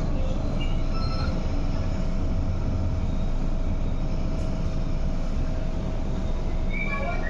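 Interior sound of a 1980s Metro Cammell MLR electric train on the MTR East Rail Line: a steady low rumble with a constant hum. A few short, faint squeals come about a second in, and a brief higher tone sounds near the end.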